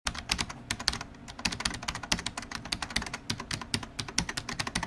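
Fast typing on a computer keyboard: a dense run of quick, irregular key clicks.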